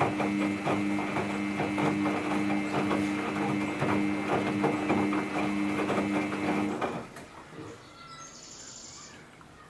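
Samsung EcoBubble front-load washing machine's drum motor running with a steady hum while the load tumbles with many small clicks and knocks during the rinse. The drum stops suddenly about seven seconds in.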